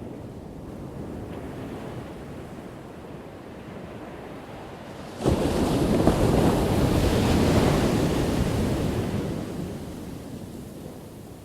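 Ocean waves breaking on a shore: a low wash of surf, then a wave crashes suddenly a little over five seconds in, its loud hissing rush lasting about four seconds before fading away.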